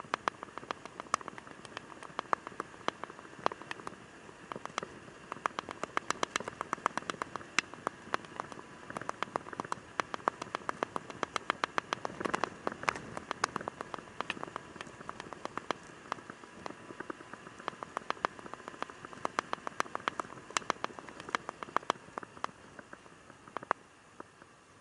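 Raindrops tapping irregularly on the camera's housing, many sharp ticks a second over a faint steady hiss; the tapping stops near the end.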